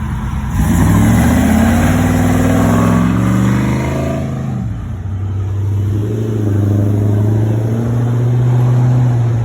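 Car engine accelerating hard, its pitch climbing for about three seconds, then running at a steady, loud note.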